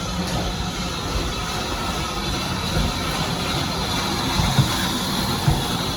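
Train running on the rails: a steady rumble and hiss, with a few low knocks in the second half.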